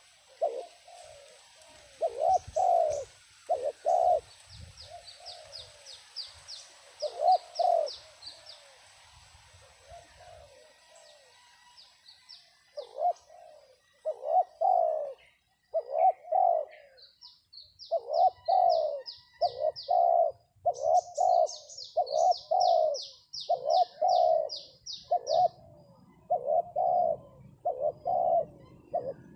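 Spotted doves cooing: loud repeated coos in short groups of two or three notes. Between them a small bird gives fast trills of short, high notes.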